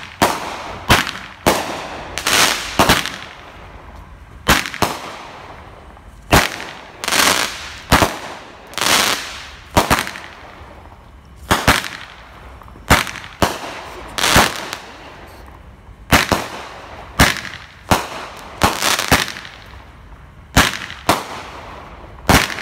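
Consumer fireworks going off in a long string of sharp bangs, about one a second, many trailed by a crackling hiss.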